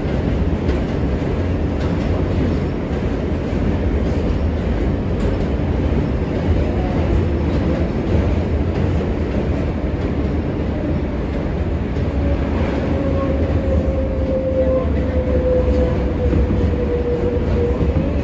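R143 subway train running on the rails, a steady heavy rumble of wheels and running gear. A thin tone slides slowly down in pitch over the last several seconds.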